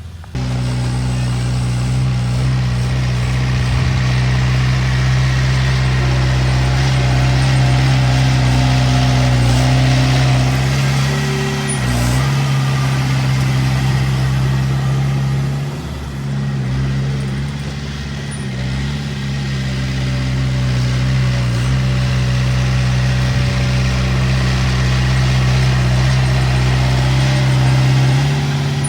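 Diesel engine of heavy earthmoving machinery running steadily. It dips briefly in pitch and level about 12 seconds in and again between about 16 and 19 seconds, as the load changes.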